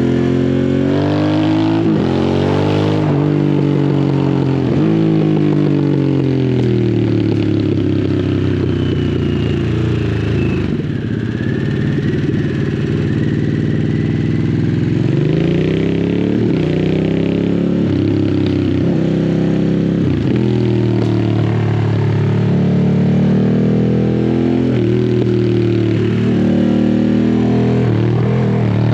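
Harley-Davidson Sportster S's liquid-cooled 1250 cc V-twin through a custom slip-on exhaust. The revs rise and fall over and over at fairly low engine speed as the rider rolls the throttle on and off.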